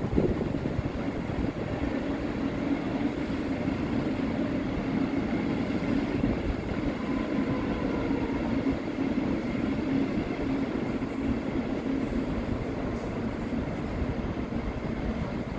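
A train running, a steady rumble with a low hum held throughout.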